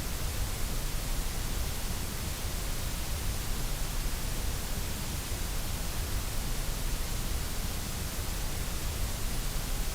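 Steady generated white noise: an even, unchanging hiss that spreads across all pitches and holds one level throughout.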